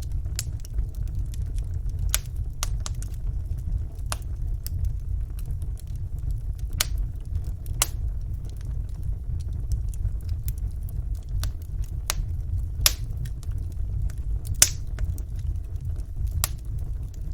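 Wood fire burning in a fireplace: a steady low rumble with small sharp crackles and pops scattered irregularly through it, two of them louder in the second half.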